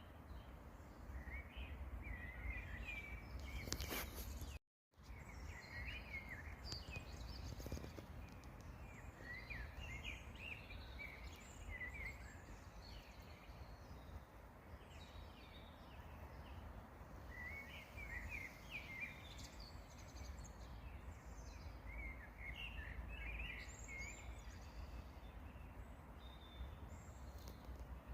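Faint outdoor birdsong: small songbirds giving repeated bursts of quick chirps and trills over a low wind rumble. A click comes about four seconds in, and the sound cuts out completely for a moment just before five seconds.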